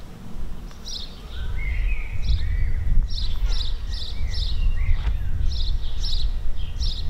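Small birds chirping: a string of short, high chirps about every half second, with a few lower gliding whistles, over a steady low rumble.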